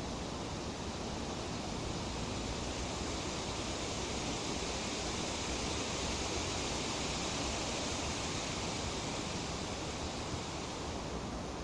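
Tree leaves rustling steadily in a light breeze: an even, hiss-like rush that swells slightly in the middle.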